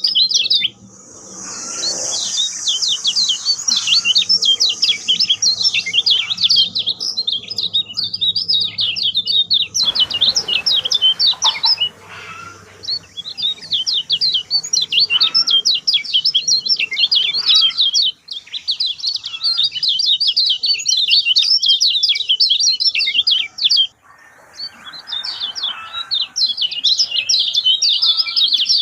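Lemon-bellied white-eye (kecial kuning) singing a fast, continuous twittering song of rapid high chirps, broken by short pauses about 18 and 24 seconds in.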